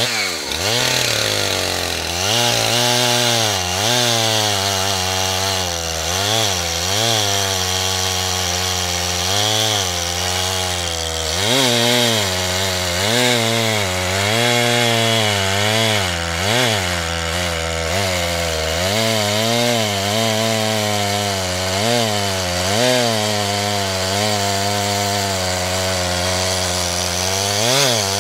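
Chainsaw milling a log lengthwise. The engine revs up at the start, then runs hard in the cut, its pitch sagging and recovering about once a second as the chain bites and the load changes.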